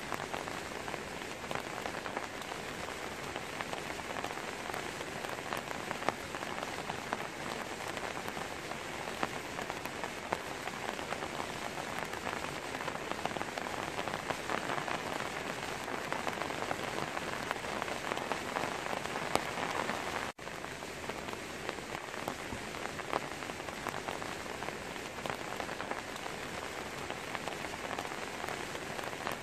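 Steady rain falling on the leaves of a tree: a dense patter of drops with no let-up. A split-second break cuts it about two-thirds of the way through.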